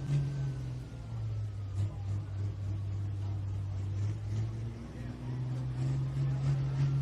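Pro Stock pulling tractor's big single-turbo diesel engine running hard under load down the track. Its steady note drops about a second in and climbs back up near five seconds.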